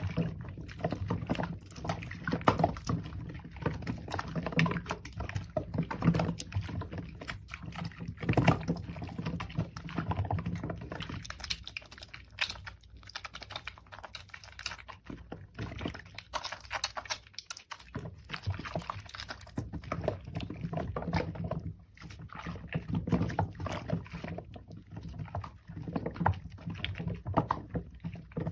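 Hands lathering a soaked bar of soap and working the foam: a dense, irregular run of wet squelches and small crackles, with a brief lull about two-thirds of the way through.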